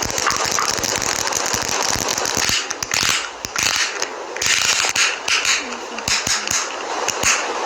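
Close-miked handling of makeup products: a dense run of clicks, taps and scratchy crackling.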